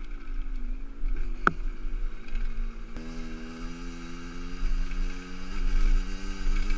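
50cc enduro motorcycle engine running at steady revs while riding, with wind rumble on the microphone. A sharp click comes about one and a half seconds in, and from about three seconds the engine note steadies and comes through stronger.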